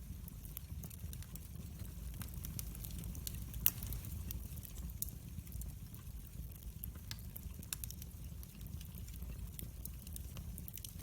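Wood fire in a fireplace crackling: a low steady rumble of flames with scattered small pops, and one louder snap a little under four seconds in.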